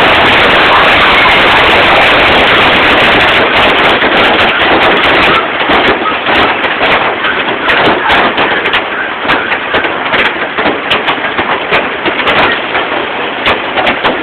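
Hail pelting down, a dense loud hiss of strikes that about five seconds in thins into many separate sharp hits.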